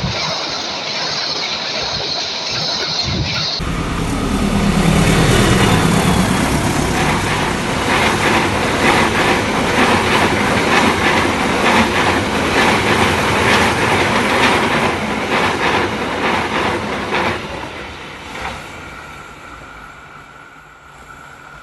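Train passing close by, its wheels clattering rhythmically over the rail joints, then fading as it moves away over the last few seconds.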